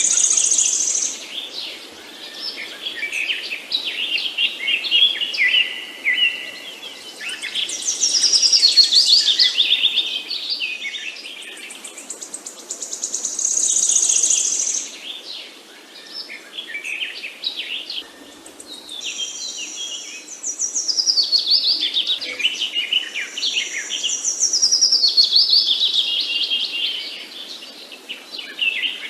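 Songbirds chirping and singing, with rapid trills and descending phrases that rise and fall in loudness every few seconds.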